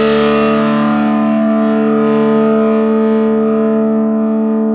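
Overdriven electric guitar chord ringing on through a dual Bluesbreaker-style overdrive pedal with its extra transistor output gain stage switched on. It holds steadily with no new strum and just goes forever, while its bright upper overtones slowly fade.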